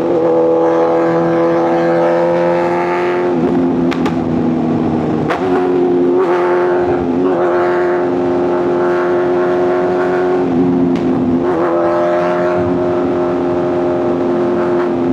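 Superbike inline-four engine and exhaust running at high, steady revs at highway speed. The engine note dips briefly and comes back up several times, about every two to three seconds in the middle stretch.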